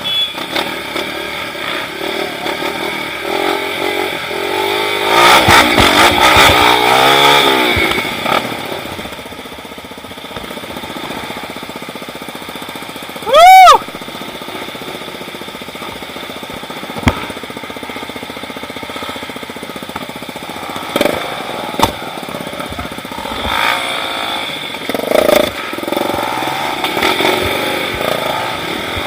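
Trail motorcycle engine running and revving, its pitch shifting up and down as it rides, loudest about five to eight seconds in. About thirteen seconds in there is one brief, very loud rising-and-falling tone.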